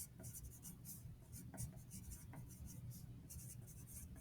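Handwriting on paper: faint, irregular scratchy strokes of a writing tool.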